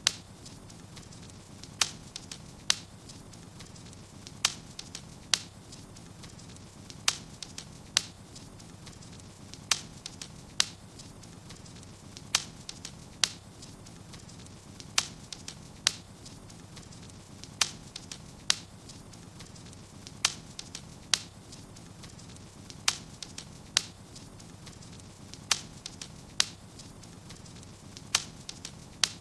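Wood fire burning in a fireplace: sharp crackles and pops, irregular but about one a second, over a steady low rushing noise.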